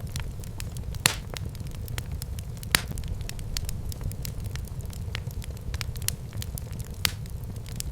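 Wood fire burning in a fireplace: a steady low rumble of flames with scattered crackles and sharp pops, the loudest about a second in and near three seconds.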